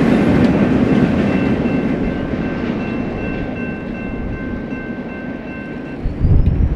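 BNSF freight train cars rolling past on the rails, wheels rumbling and clacking, slowly growing quieter, with a thin high ringing tone through the middle. Near the end, wind buffets the microphone.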